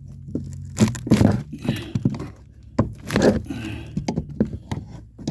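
Old wooden boards being pried and knocked loose with a pry bar and hammer: a few sharp knocks and cracks of wood, the loudest about a second in and about three seconds in.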